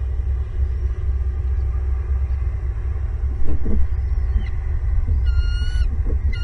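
A steady low rumble throughout, with a bald eagle giving a short high call with several harmonics about five seconds in, after a fainter call just before it.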